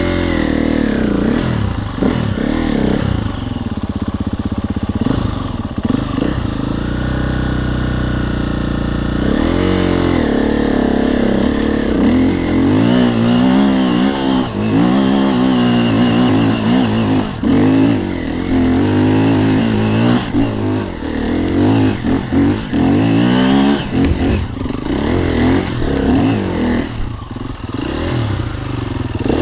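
Enduro dirt bike engine being ridden, its revs rising and falling over and over. The pitch holds fairly steady for a few seconds early on, then goes into quick repeated throttle surges from about a third of the way in.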